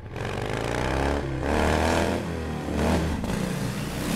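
Motorcycle engine accelerating hard, its pitch climbing in three successive runs with a short break between each, as the bike shifts up through the gears.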